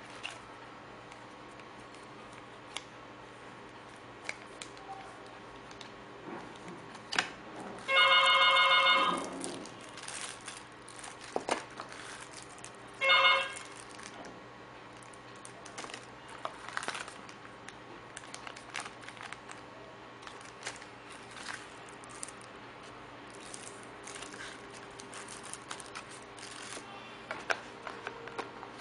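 A mobile phone being handled, with scattered clicks and taps, and the phone twice playing a short electronic tone jingle, the first about a second and a half long, the second shorter.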